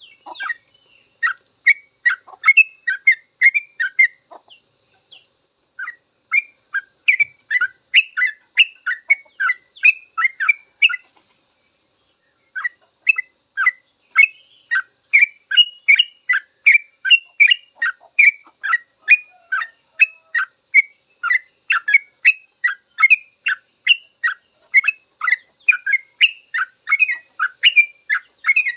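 Yellow-vented bulbul (trucukan) singing a long, rapid 'ropel' song: a fast run of short, clear notes at about three a second, broken off twice by brief pauses.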